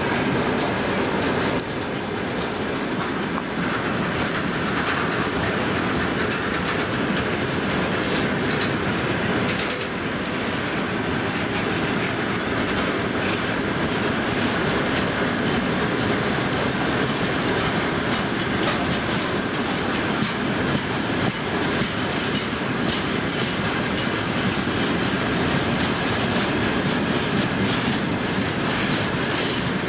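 Long freight train of tank cars rolling past close by: a steady rumble of steel wheels on rails, with the clickety-clack of the wheels crossing rail joints.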